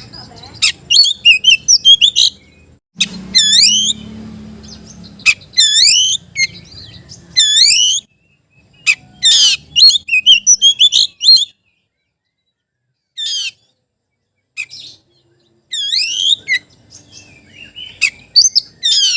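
Oriental magpie-robin singing a challenge song at a rival: loud bursts of quick, sweeping whistled notes with short pauses between phrases, the longest pause a little past halfway.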